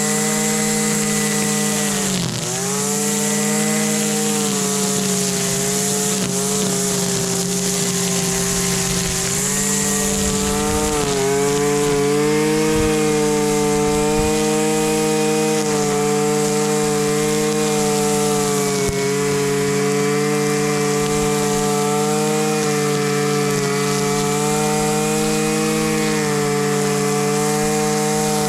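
Husqvarna 326LD string trimmer's small two-stroke engine running steadily. Its pitch sags briefly about two seconds in and again about eleven seconds in.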